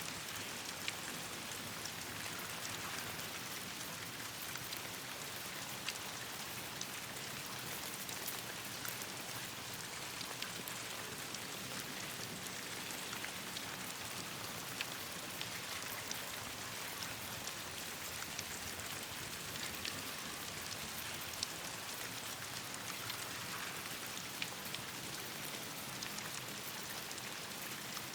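Steady rain falling, with scattered sharp ticks and pops over the even hiss.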